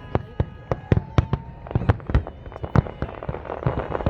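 Fireworks display: aerial fireworks bursting in quick, irregular succession, several sharp bangs a second, with a thicker crackle toward the end.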